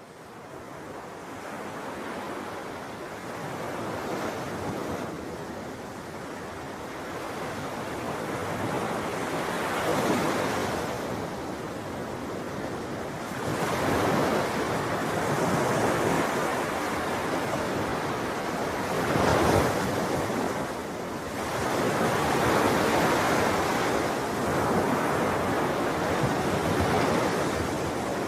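Ocean surf: waves breaking and washing in, the noise swelling and ebbing every few seconds. It fades in over the first couple of seconds.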